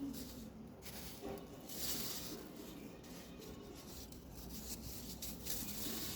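Soft crunching of a powdery material being pressed, in a couple of longer bursts with small crackles between.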